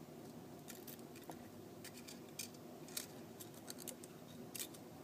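Small repair tools clicking and tapping against the iPhone 4S's internal parts as it is disassembled: irregular light, sharp ticks, the loudest about three seconds in and another near the end, over a steady low hum.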